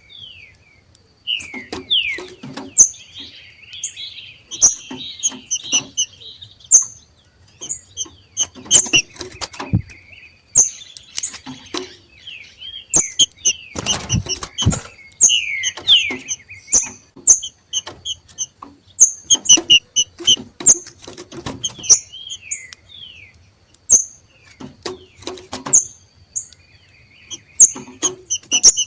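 Green-winged saltators (trinca-ferros) giving the rapid 'macheado' call: a busy run of short, sharp high chips and quick falling whistled notes, mixed with sharp clicks.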